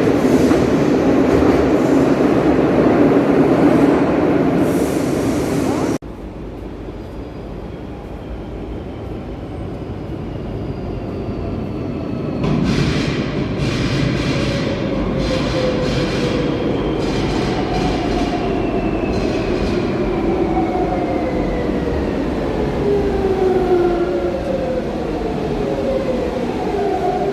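Madrid Metro train running loudly; the sound then cuts abruptly to a metro train whose electric whine falls steadily in pitch as it slows. Through the middle stretch of that second passage its wheels clack over rail joints.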